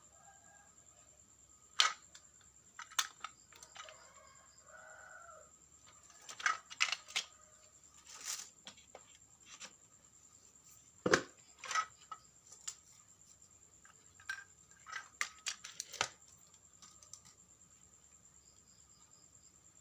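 Scattered clicks, taps and scrapes of small plastic and metal parts being handled, in irregular clusters with the sharpest knocks about two seconds in and again about eleven seconds in.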